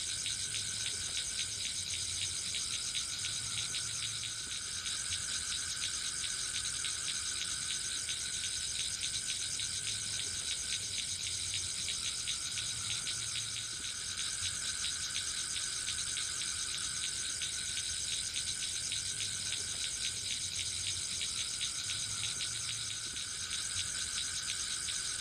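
A forest chorus of insects: rapid, continuous pulsing trills over a steady high-pitched buzz, unbroken throughout.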